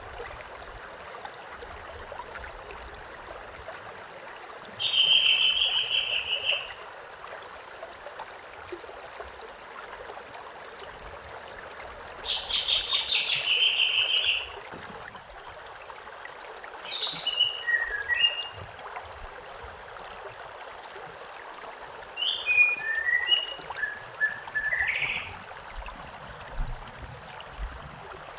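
A stream flowing steadily, with songbirds singing over it. A rapid trill comes about five seconds in and again, louder, around twelve seconds. Later there are two runs of short chirped notes.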